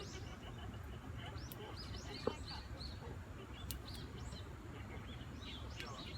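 Small birds chirping, many short high calls scattered throughout, over a steady low background rumble. A single sharp click sounds about two seconds in.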